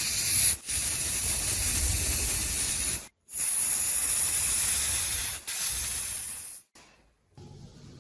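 Pressurised spray hissing from a nozzle in three long bursts with short breaks, stopping shortly before the end.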